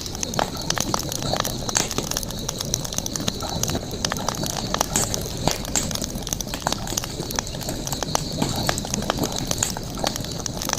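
Campfire crackling: wood burning with irregular sharp snaps and pops over a steady high hiss.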